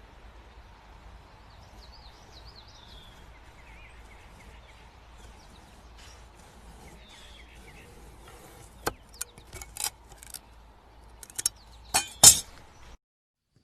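Faint background hiss with a few high chirps, then a run of sharp clinks, the loudest about twelve seconds in.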